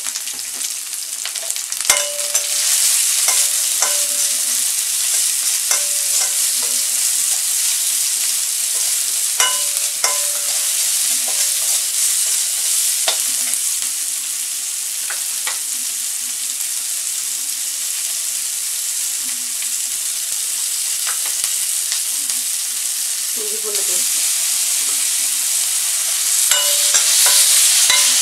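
Sliced onions sizzling in ghee in a kadai, stirred with a perforated metal spoon that scrapes and clinks against the pan every second or two. The sizzle gets a little louder near the end.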